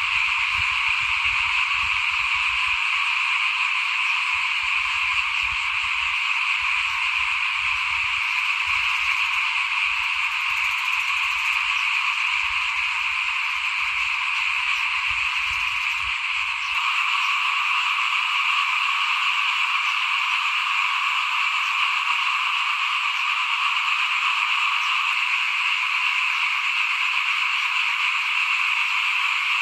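A dense chorus of many small frogs calling at once, steady and unbroken. A low rumble underneath stops about halfway through.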